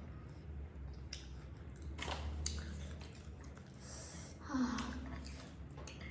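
Close-up eating sounds: chewing with several sharp wet mouth clicks and smacks, and a short voiced murmur about four and a half seconds in. A steady low hum sits underneath.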